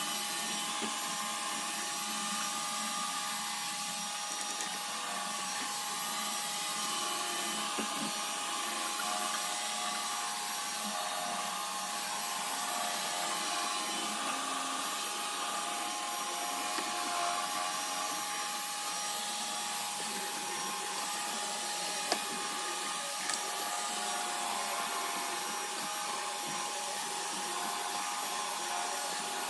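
iRobot Roomba robot vacuum running steadily, a constant motor whine over the hiss of its suction, with a single sharp click about two-thirds of the way through.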